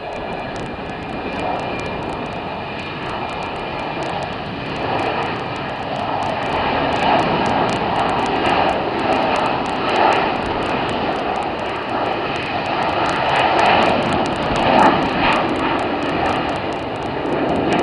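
Jet airliner's engines at takeoff thrust: a loud, continuous rushing noise with a steady whine, growing louder through the middle as the jet passes and staying loud to the end.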